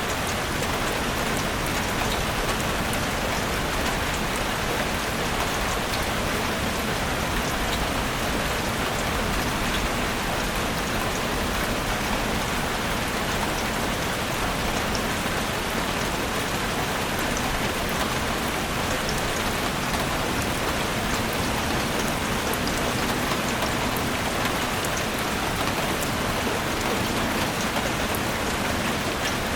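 Steady rain falling in a forest: an even, unbroken hiss with many small drop ticks scattered through it.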